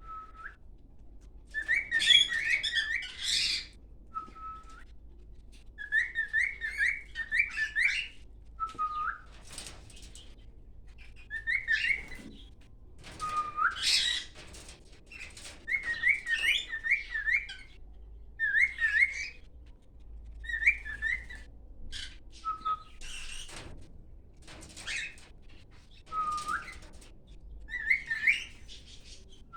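Cockatiel singing: repeated whistled phrases of quick up-and-down warbling notes, broken by short single whistles, in bursts every couple of seconds.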